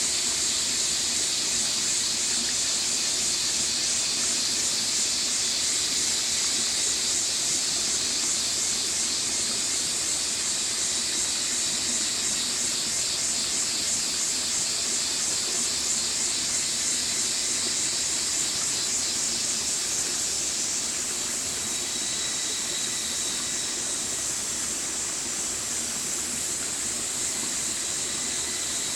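Stream water flowing, a steady rushing hiss that eases a little about two-thirds of the way through.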